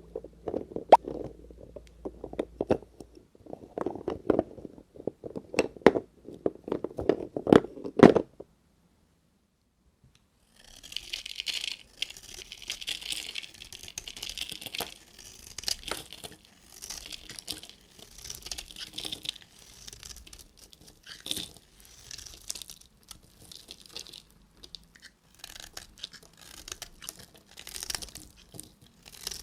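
Soap bar packaging being opened by hand: paper and plastic wrappers crinkling and tearing, with sharp clicks and taps. The sound drops out for about two seconds after eight seconds in, then resumes as a lighter, hissier crinkle.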